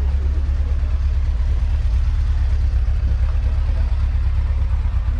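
A vehicle engine idling with a steady, even low rumble.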